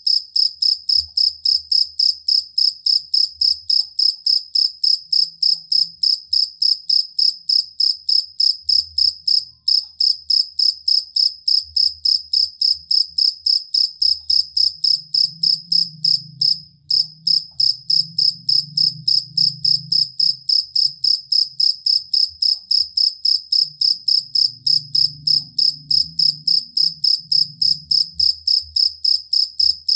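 Field cricket (jangkrik kalung) singing: a steady, fast run of high-pitched chirps several times a second, with two brief pauses, about a third of the way in and again past the middle.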